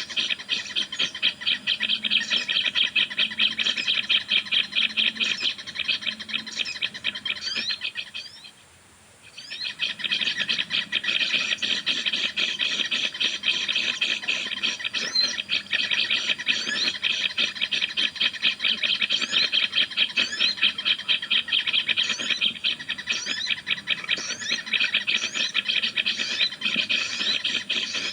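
Fast, scratchy bird chatter repeated without a break, a lure call for trapping sogon birds. It cuts out for about a second a little after eight seconds in, then starts again.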